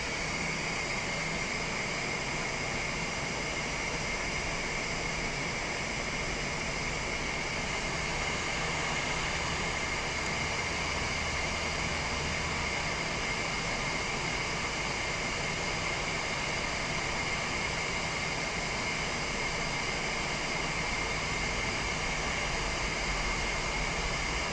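Hot air rework station blowing steadily, a constant hiss with a thin high whistle, while it heats the solder to seat a replacement port on a circuit board.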